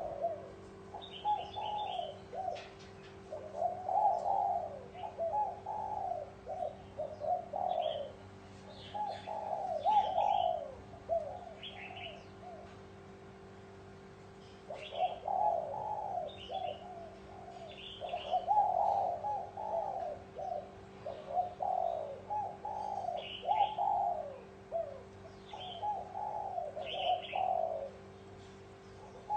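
Spotted doves cooing in a steady series of soft, repeated phrases, with a pause about halfway through, then starting again. Short high chirps are heard over the cooing, and a faint steady hum sits beneath it.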